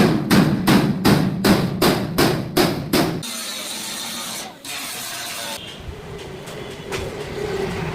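Hammer blows on steel, rapid and evenly spaced at about three a second, for the first three seconds. A hiss follows, then a steady hum with a faint low tone.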